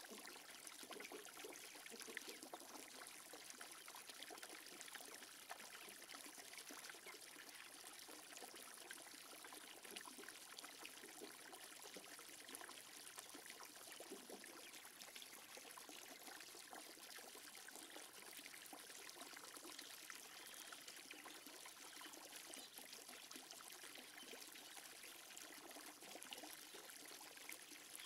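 Faint, steady trickling and splashing of a thin jet of water from a hose falling into a small shallow pond.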